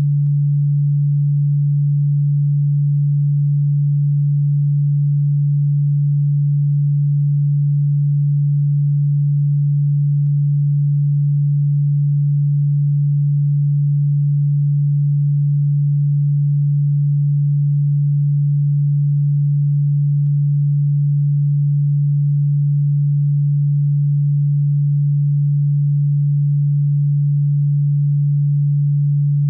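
A single steady, unbroken low-pitched electronic sine tone, played as a cockroach-repellent sound.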